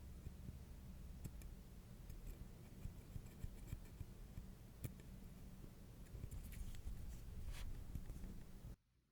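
Light, irregular clicks and scratches from nail tools and small items being handled on nails, over a steady low hum. The sound cuts off abruptly near the end.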